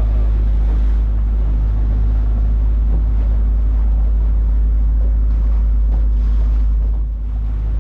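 Small boat's motor running steadily under way, with wind buffeting the microphone and water rushing past the hull.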